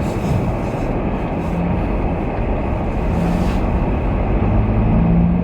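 Steady rumble of a vehicle driving, with a low engine drone under road and wind noise.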